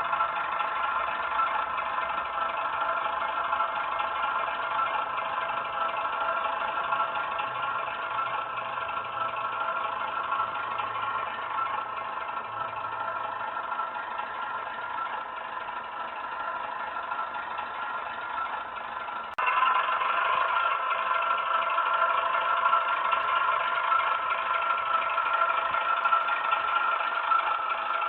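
Model-railway sound decoder playing a Class 08 diesel shunter's engine sound through the locomotive's small onboard speaker, running steadily. A little past two-thirds of the way through it abruptly becomes louder.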